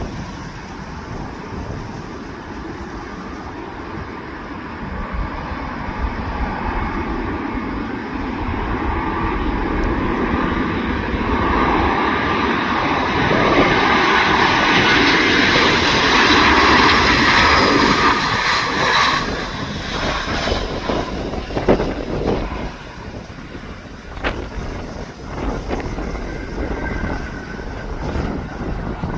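Airbus A321 jet airliner's engines growing louder as it approaches, passing at full loudness, then dropping away sharply, with gusty wind rumbling on the microphone throughout.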